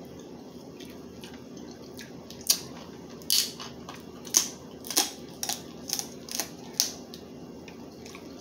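Crab leg shells being cracked and snapped open by hand: a run of sharp cracks and clicks from about two and a half to seven seconds in, over a steady low hum.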